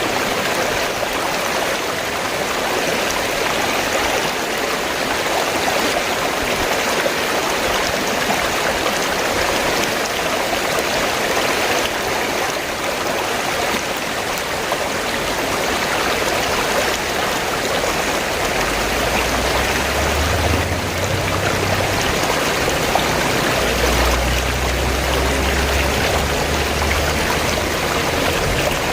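River water flowing in a steady, even rush. A low rumble comes in underneath about two-thirds of the way through and fades before the end.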